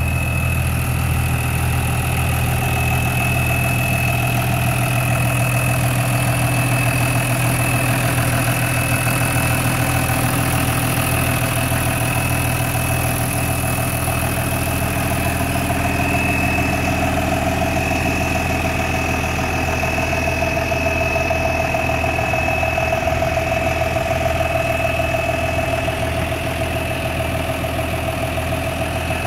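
John Deere 6603 tractor's diesel engine idling steadily, with a thin high-pitched whine running alongside.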